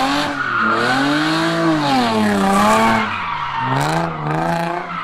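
A car's engine revving up and down in slow swells while its tyres squeal, as the car spins in a burnout or donut.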